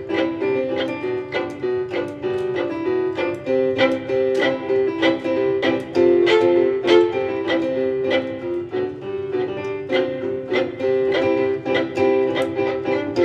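Background music: a steady stream of picked or struck notes, about two a second, over held chords, on piano or keyboard with plucked strings.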